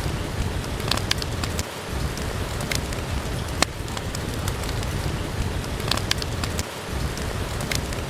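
Steady rain hissing, with a log fire crackling: scattered sharp pops and snaps every second or so.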